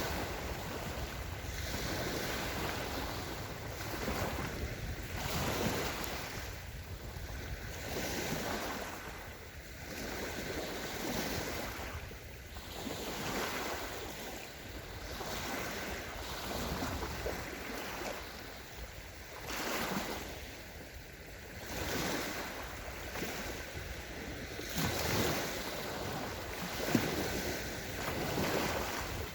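Small waves of the Sea of Azov breaking and washing on a sandy shore, swelling and falling every couple of seconds, with wind rumbling on the microphone.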